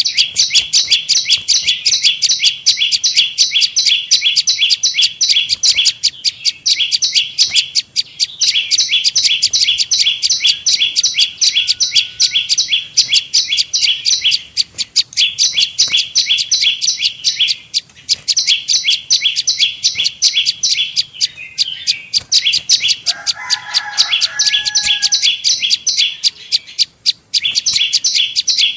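Prenjak lumut (prinia) lure-call recording: rapid, high chirps repeated several times a second in long runs broken by brief pauses. A lower, different bird call is heard for about two seconds around two-thirds of the way through.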